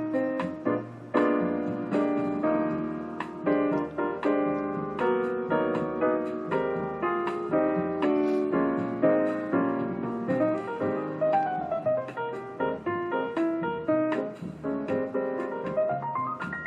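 Background piano music: a solo piano playing a flowing melody with quick runs up the keyboard.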